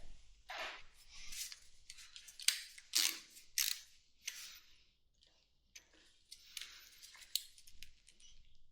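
Hand-tool work on motorcycle carburettors: irregular clicks and short scrapes of metal on metal, as tight carburettor screws are worked at.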